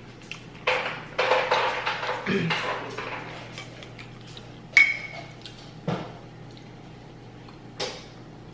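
Dishes and cutlery clinking and being handled while eating, with one sharp, ringing metallic clink about five seconds in and a couple of lighter knocks after it.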